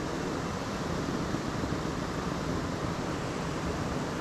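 Steady rush of creek water flowing over a small dam spillway.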